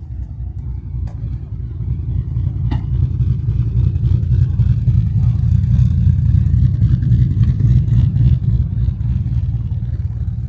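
A car engine's low rumble, growing louder over several seconds and then easing off, with a few light clicks.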